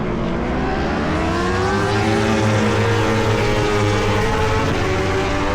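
World Superbike racing motorcycles on track, the engine note climbing in pitch over the first couple of seconds as a bike accelerates, then holding steady.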